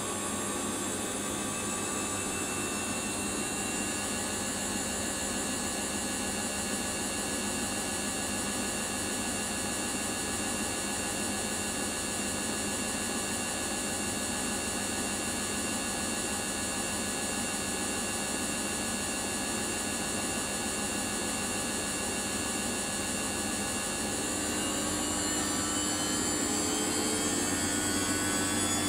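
Samsung washing machine's drum motor running with a steady, many-toned whine and hum; near the end the whine climbs in pitch as the drum speeds up.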